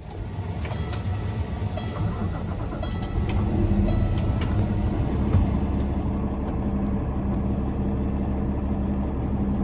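Cummins X15 565 diesel in a 2020 Peterbilt 389 starting up and settling into a steady idle, a deep rumble that builds over the first few seconds.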